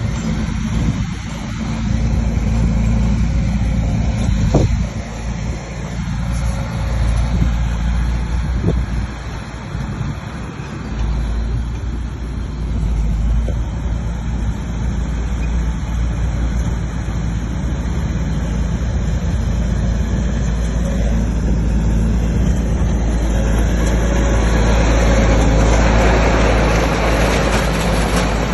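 Bulldozer's diesel engine running steadily under work, with a few short metallic clanks, growing a little louder near the end.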